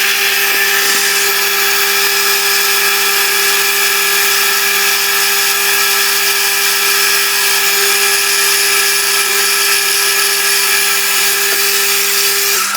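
A power drilling machine running steadily, drilling clearance holes through a block, with a constant motor hum under loud high cutting noise. The cutting noise stops abruptly near the end while the motor hum carries on briefly.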